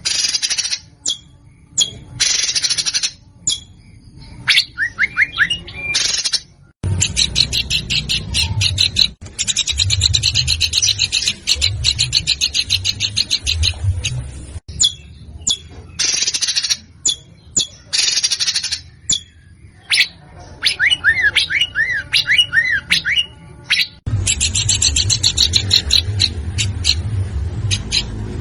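Songbird song: long runs of harsh, very rapid buzzing trills, broken by short sharp chips, with a string of quick up-and-down whistled notes about three-quarters of the way through. A low hum sits under the longer trills.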